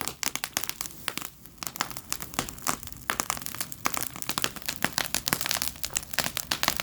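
Wood bonfire burning with loud, dense crackling and popping, many irregular snaps a second.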